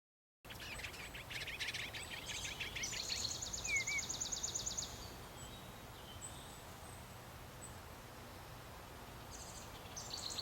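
Small birds calling: a cluster of quick chirps followed by a fast, high trill lasting about two seconds, then a few more short chirps near the end over a faint steady background hiss.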